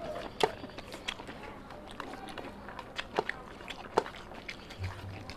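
Close-miked chewing with wet mouth sounds, as fingers mix rice and curry on a steel plate. A few sharp clicks stand out, the loudest about half a second in and around three and four seconds in.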